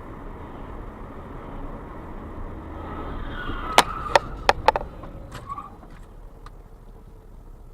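Car road noise heard from inside the vehicle, then about four seconds in a quick run of four or five loud sharp bangs within a second, followed by a few fainter knocks: a vehicle collision.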